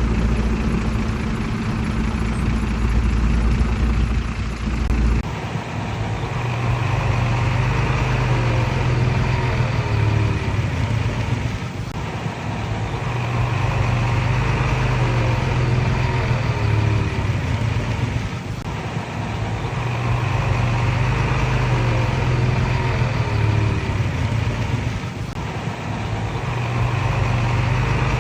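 Komatsu D31PX bulldozer's diesel engine working. Its sound swells and eases in a repeating cycle about every six to seven seconds, with a steadier, deeper hum for the first five seconds.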